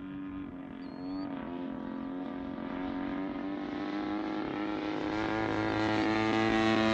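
EME60 60cc two-stroke gas engine of a giant-scale RC warbird, turning a three-blade propeller in flight: a steady engine drone that grows louder as the plane comes in for a low pass, with a slight rise in pitch about a second in.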